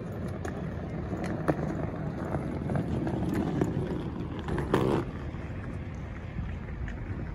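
Amtrak diesel passenger train rumbling as it pulls away from the station platform, with a few sharp clicks and a louder clack about five seconds in.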